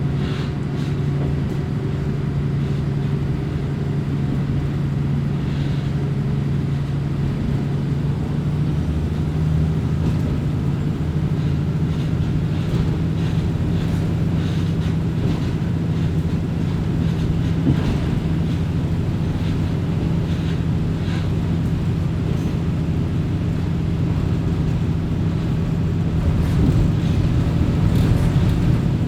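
Diesel railcar running sound heard from inside the car: a steady engine drone with the rumble of wheels on rail. The engine note shifts about a third of the way in, and there are occasional light clicks from the track.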